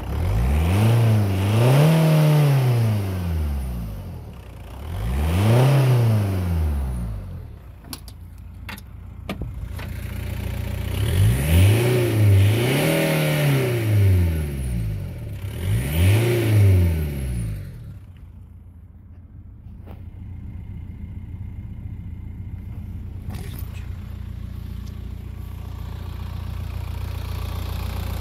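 Audi A4 B6's 1.9 TDI (AVB) four-cylinder turbodiesel being free-revved several times, each rev rising and falling in pitch, then settling back to a steady idle about two-thirds of the way through.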